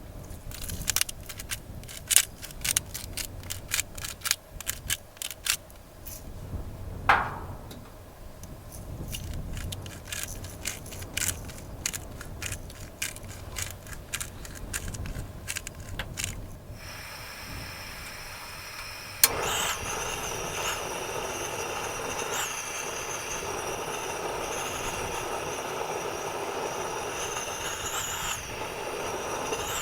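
Handling sounds: a run of light clicks and knocks, then about two-thirds of the way through a sharp click followed by a steady rushing hiss.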